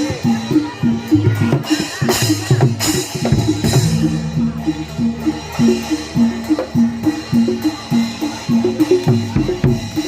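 Live Javanese gamelan accompaniment for a Barongan Blora dance: hand drums struck in a fast pattern under short, repeating tuned notes.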